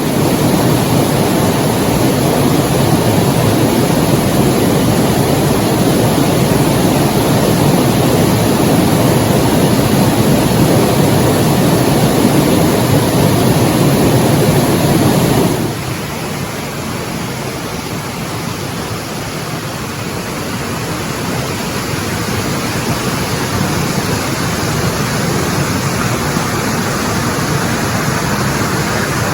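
Waterfall: rushing water, a loud, steady noise. About halfway through it suddenly drops in level and thins, losing much of its deeper rumble, then swells slightly again.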